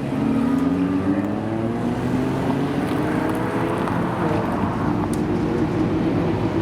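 Supercar engine accelerating, its pitch climbing steadily for about three seconds and then holding at a high, even note.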